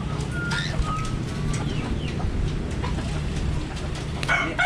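Budgerigars chirping with short whistled notes and clicks. A louder, longer bird call starts near the end.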